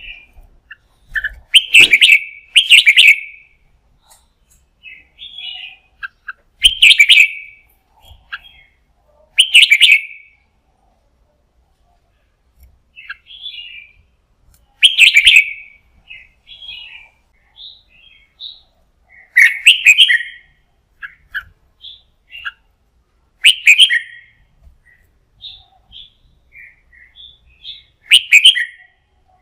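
Red-whiskered bulbul singing its fighting song: loud short warbled phrases every few seconds, with softer chirps between them.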